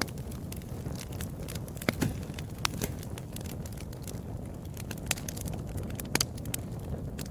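Wood fire burning in a fireplace: a steady low rush with irregular sharp crackles and pops, the loudest about two seconds in and just after six seconds.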